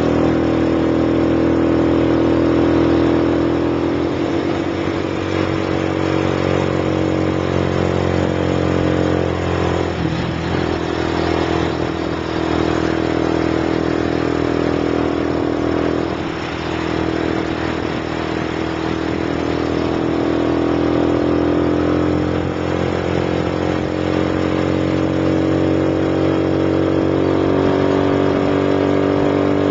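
Lifan LF200-B motorcycle's single-cylinder engine running through an aftermarket Iridium exhaust, a steady exhaust note whose pitch drifts a little, with brief breaks about ten and sixteen seconds in.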